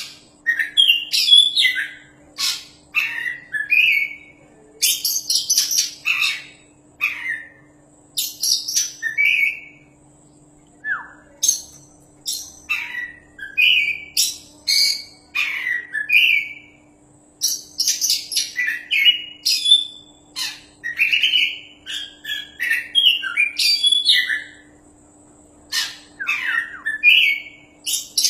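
Oriental magpie-robin (kacer) singing vigorously and loud, in rapid phrases of varied whistles, chirps and short harsh notes with brief pauses between runs.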